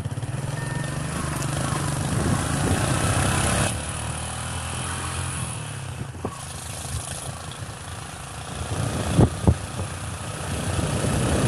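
Motorcycle engine running, with wind noise on the microphone that cuts off suddenly about a third of the way in. Two sharp thumps come close together about three-quarters of the way through.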